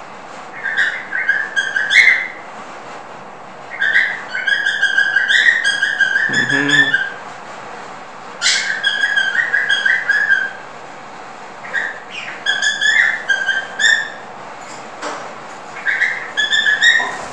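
A small bird chirping in about five runs of rapid, repeated high chirps, each run lasting one to three seconds, with quiet gaps between.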